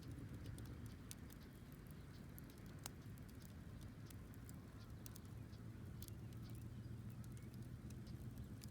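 Wood fire crackling: scattered sharp snaps and pops, one louder about three seconds in, over a steady low rumble.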